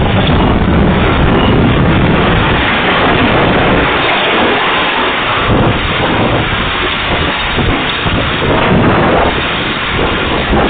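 Loud, steady storm noise: strong wind and heavy rain beating on and buffeting the microphone.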